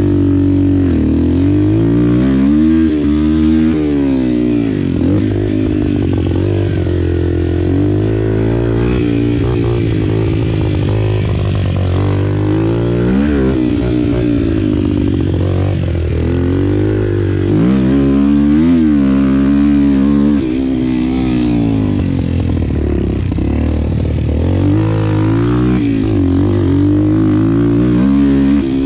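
125 cc four-stroke pit bike engine being ridden around a dirt track, its pitch rising and falling every few seconds as the throttle is opened and rolled off through corners.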